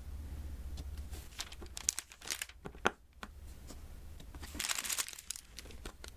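Diamond painting by hand: small sharp clicks and taps as resin drills are picked up and pressed onto the sticky canvas, with a brief crinkling rustle of plastic film about four and a half seconds in.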